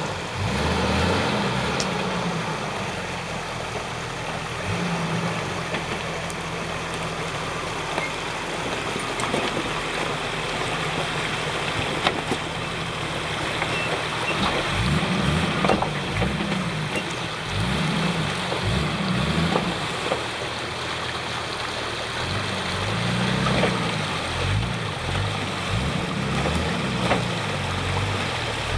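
Nissan Patrol's 4.2-litre turbo-diesel straight-six running, rising and falling in revs again and again in the second half, over a steady noisy rush with a few sharp knocks.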